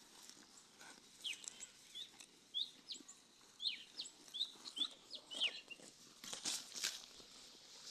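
Small birds chirping in short, quick, sweeping notes, many in a row. Near the end there are a few louder short rustling noises.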